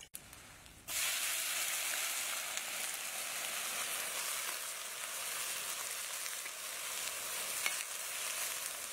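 Tamarind beetles sizzling in hot oil in a metal wok, a steady hiss that starts abruptly about a second in.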